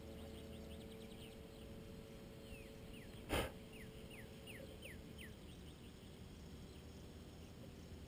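Birds calling outdoors: a run of quick falling whistled notes, thickest from about two and a half to five seconds in. A single sharp knock about three and a half seconds in is the loudest sound, over a faint steady hum that fades out around five seconds in.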